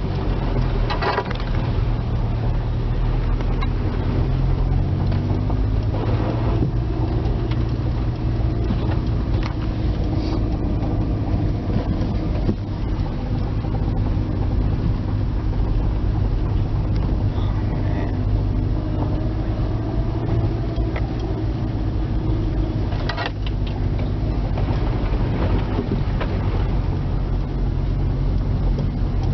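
A vehicle's engine and road noise running steadily, a continuous low drone.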